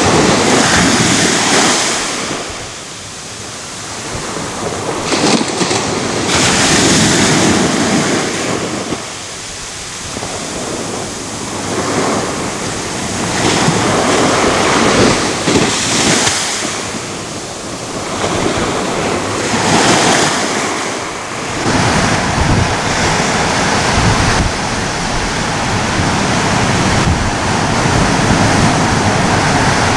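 Sea waves breaking and washing up and back down a beach, surging and receding every few seconds. About three-quarters of the way through, the surges give way to a steady, unbroken rush of surf with a deeper low end.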